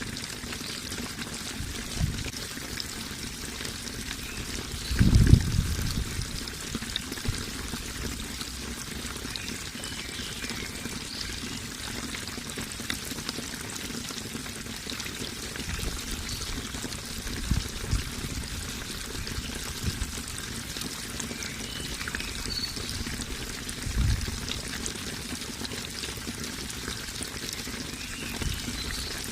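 Running water pouring and trickling steadily, with a few low splashing thumps, the loudest about five seconds in.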